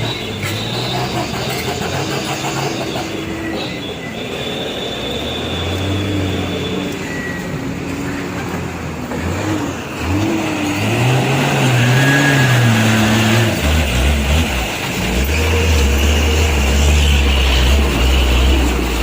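Radio-controlled model truck running, its motor rising and falling in pitch, then a steady low drone from about two-thirds of the way in.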